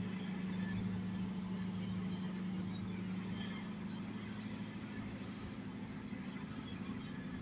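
Steady low drone of a boat's engine running at cruising speed, with a few faint short high sounds above it.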